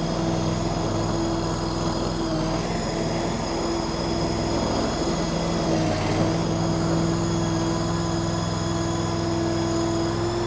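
Engine of a stand-on mini skid steer running steadily, its pitch dipping slightly twice, a couple of seconds in and again about six seconds in.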